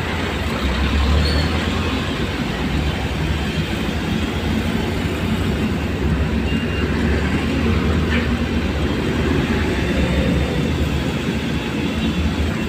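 Vehicle driving on a rain-soaked road: a steady low engine and road rumble under an even hiss of tyres and water.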